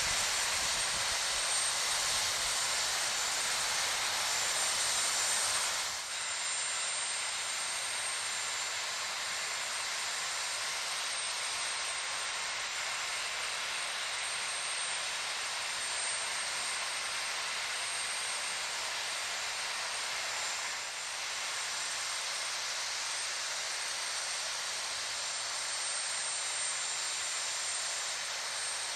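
Steady rushing noise of an aircraft in flight, dipping briefly twice.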